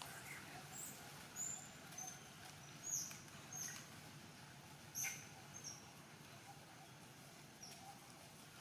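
Faint, short, high-pitched animal squeaks, about half a dozen, each dropping quickly in pitch and spaced irregularly through the first six seconds, over a soft outdoor hiss.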